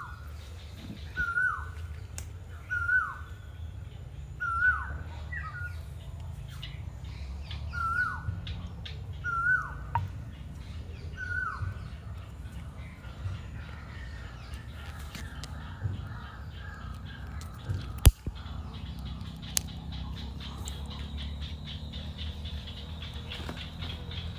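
A bird calls about eight times, roughly every second and a half, each call a short note that rises briefly and then drops sharply; the calls stop about halfway through. Faint tapping and scraping come from a coconut being worked by hand, with one sharp click about three-quarters of the way in.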